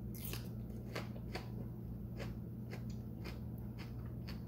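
Raw green bell pepper being bitten and chewed close to the microphone: about a dozen crisp, irregular crunches.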